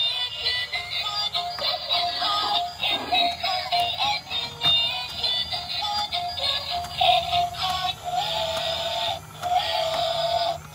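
A tinny electronic tune from a light-up toy steam locomotive's built-in sound chip, a simple melody of bright notes with little bass. Near the end it repeats a held note roughly once a second.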